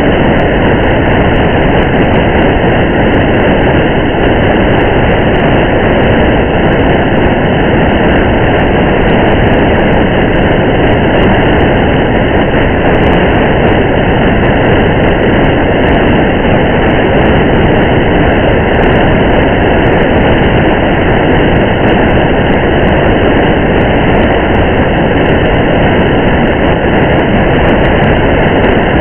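Steady rain and road noise of a car driving through rain: a loud, even rumbling hiss that doesn't change, with faint scattered ticks over it.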